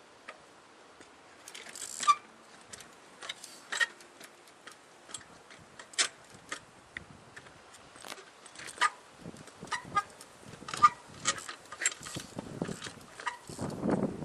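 Irregular sharp clicks, knocks and metallic clinks from a trials bike working over rock, with no engine note. The loudest knocks come about two seconds in and near eleven seconds, and a low rumble comes near the end.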